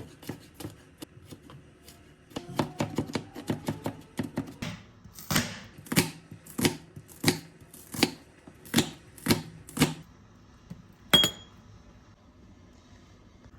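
Kitchen knife chopping on a cutting board: a quick run of cuts, then a steady series of single chops about one and a half a second. Near the end there is one sharp clink.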